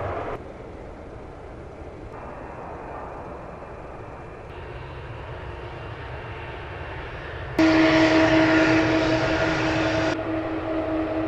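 Airliner engine noise in short cut-together stretches: a quieter steady engine noise, then a louder passage with a steady humming whine starting abruptly about two-thirds of the way in.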